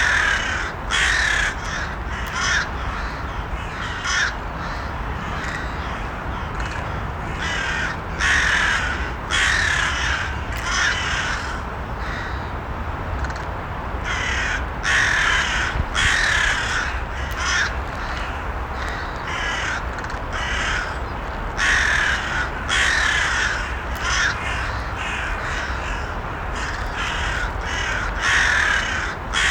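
Crows cawing over and over, short harsh calls coming in irregular clusters over a steady low background rumble.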